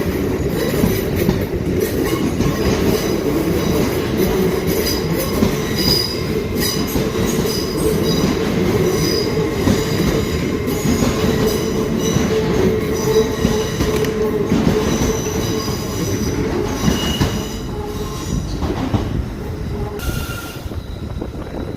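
Hitachi Class 802 train running along the platform: a steady rumble of wheels on rail with repeated high-pitched wheel squeals, easing off near the end.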